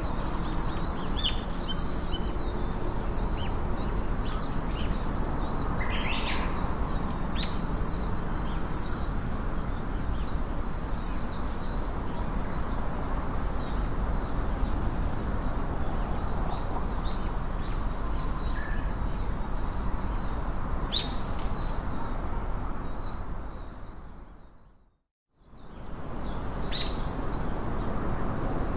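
Outdoor ambience of small birds chirping with many short, high notes over a steady background noise. The sound fades out and back in about three-quarters of the way through.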